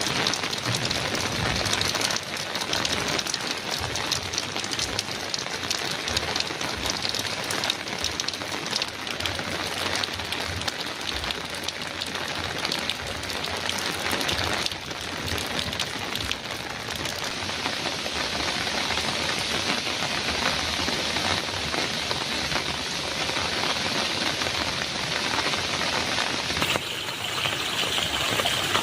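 Heavy rain drumming on a metal roof, a steady dense patter of drops. Near the end the sound changes abruptly to a brighter, hissier rain.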